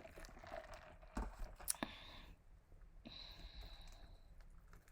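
Faint clicks and soft mouth sounds of someone eating close to the microphone, with a couple of sharper clicks between one and two seconds in.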